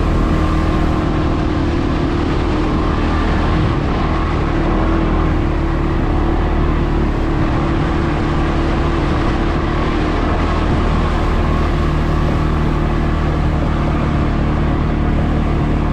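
CFmoto CForce 520 ATV's single-cylinder engine running at a steady pace under way, with no marked revving or pauses.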